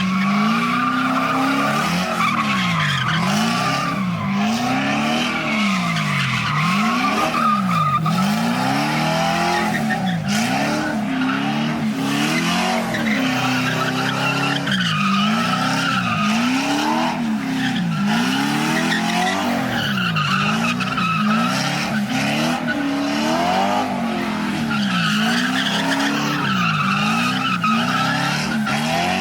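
Car engine revving up and down over and over, about once a second, while its tyres squeal, as in a burnout or donuts.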